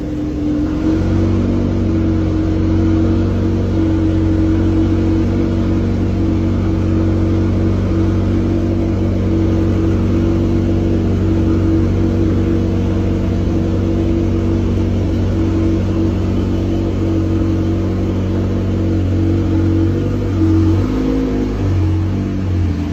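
Car engine running at a steady speed, its pitch held level throughout with a slight wavering near the end.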